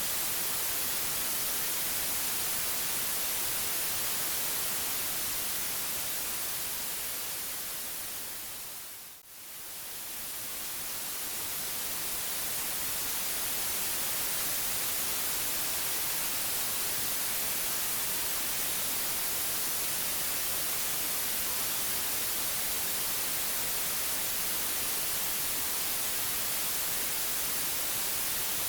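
Steady white noise, an even hiss strongest in the high frequencies. About nine seconds in it fades down to a brief near-silent dip and then swells back to full level over the following few seconds, like the seam of a looped track.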